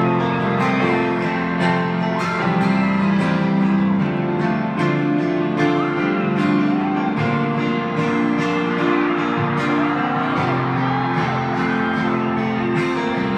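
Live band music with a strummed acoustic guitar over sustained chords, at a steady pulse of about two strokes a second.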